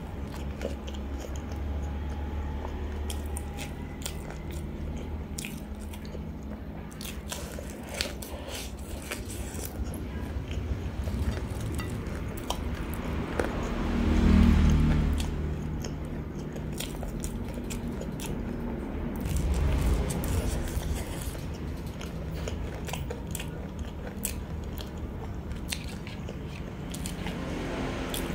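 Close-miked eating of crispy battered fried sweet potato strips and fried chicken: repeated crunchy bites and chewing with many sharp crackles. There are two louder, fuller swells, about halfway through and again about two-thirds through.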